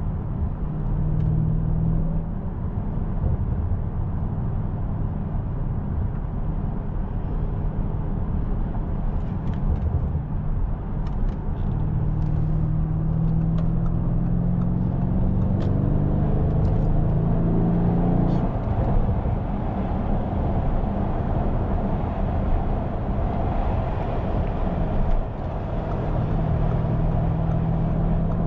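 Audi S7's twin-turbo engine humming under steady road and tyre noise while cruising. The engine note climbs slowly in pitch as the car gathers speed from a little before halfway, falls away about two-thirds through, and comes back as a steady hum near the end.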